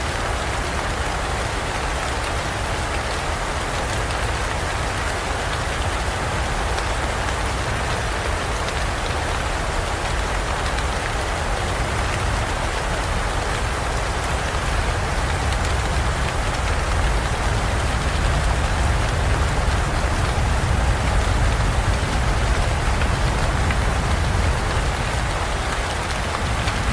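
Steady heavy rain falling, with a low rumble underneath, growing a little louder past the middle.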